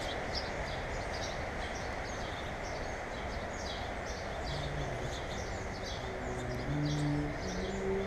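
Small birds chirping over and over, several short high chirps a second, over a steady outdoor background hiss. A few brief low hums come in during the second half.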